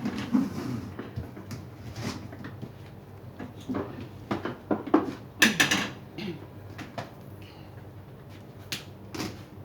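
Scattered light clicks and knocks, with a louder cluster of them about five to six seconds in.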